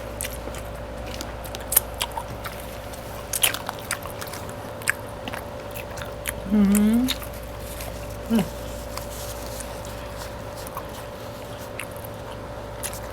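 Close-up eating sounds: biting and chewing food, with scattered small crunches and mouth clicks over a steady faint hum. About six and a half seconds in comes a short rising hum of a voice, and near eight and a half seconds a brief second one.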